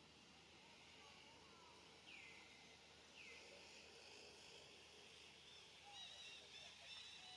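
Faint outdoor ambience with bird calls: two quick downward-sweeping chirps a second apart, then a run of short high chirps near the end.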